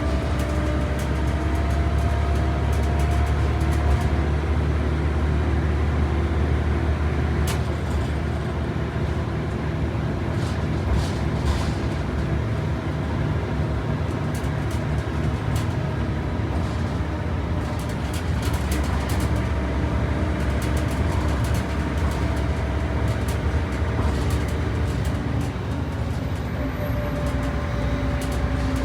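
A heritage ex-STA bus heard from inside while it is being driven: a steady low engine drone under a fainter whine that rises and falls, with occasional rattles and clicks from the body.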